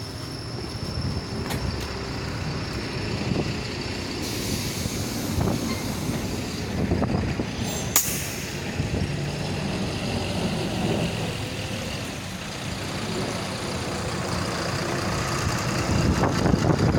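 City bus running, heard from inside the passenger cabin: steady engine and road rumble, with a hiss starting a few seconds in and a single sharp click about halfway through.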